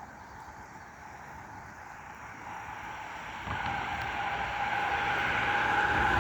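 Car running and driving, with steady road and engine noise that grows louder, stepping up about three and a half seconds in with a steady hum.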